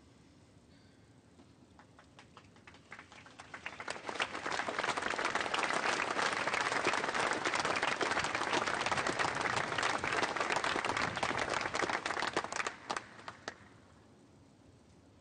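Audience applauding: scattered claps about two seconds in swell into full applause, which fades out in the last few seconds.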